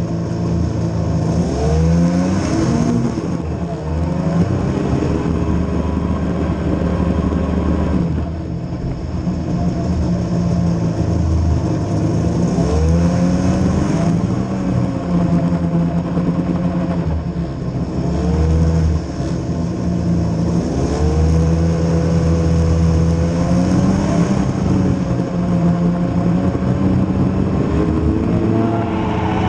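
Engine of a vehicle running under load, its pitch rising as it accelerates and falling back as it eases off, several times over.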